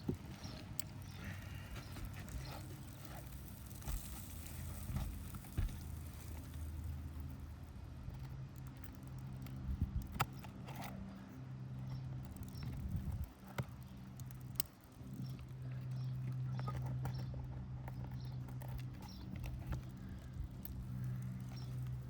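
Scattered knocks, clicks and scrapes of roofing tools working nails loose from asphalt shingles, over a steady low hum.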